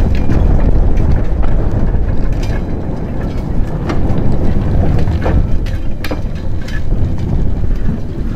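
Wind buffeting the microphone over the low running of a Vulcan Foundry 0-4-0 diesel shunter moving two 1959 ex-Northern Line carriages slowly past, with scattered sharp clicks and knocks from the wheels on the track.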